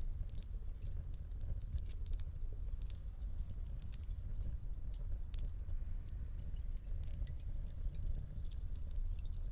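Wood fire crackling in a fireplace: irregular small pops and snaps over a low, steady rumble of burning.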